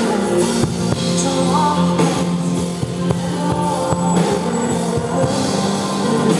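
Live rock band playing an instrumental passage, with a drum kit keeping a steady beat under sustained guitar.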